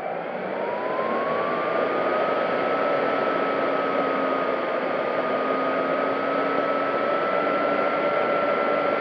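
Electric motor and propeller of an FMS P-40B Warhawk RC plane whining in flight over a steady rush of air, heard from on board. The whine rises in pitch over the first two seconds as the throttle comes up, then holds steady.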